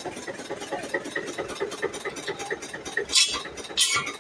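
Eicher 242 tractor's diesel engine running with a steady, rhythmic chug. Two short hissing bursts come near the end.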